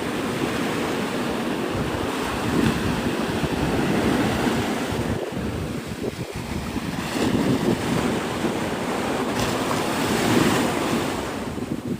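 Gulf surf washing onto the beach, a steady rush that swells and eases, with wind buffeting the microphone.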